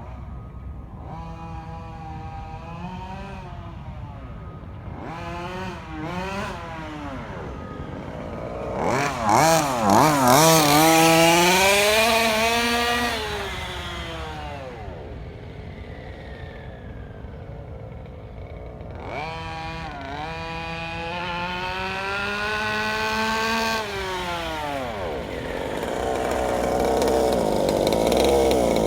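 Rovan 32cc two-stroke engine of a 1/5-scale gas RC buggy with a DDM side exhaust, revving up and dropping back in several bursts as it is run in during break-in. The loudest run comes about ten seconds in, and the engine holds a steadier, louder note near the end.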